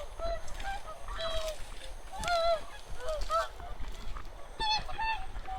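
A flock of wild geese and swans calling, many short honking calls overlapping one another, with a low rumble underneath.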